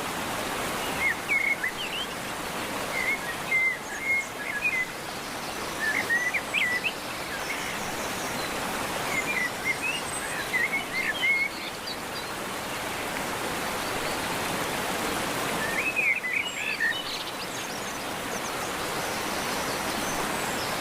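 Small songbirds chirping in short clusters of quick notes every few seconds, over a steady hiss of outdoor background noise.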